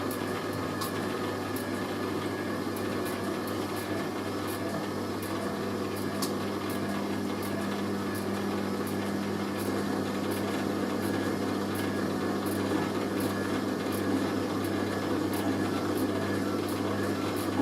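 Hoover A3060 Electronic 1100 washing machine's drum motor turning the drum at distribution speed with a heavy sofa throw inside: a steady motor hum that grows a little louder toward the end, with faint regular ticks. The load is not spreading evenly around the drum, which the owner will not allow to go on to a spin.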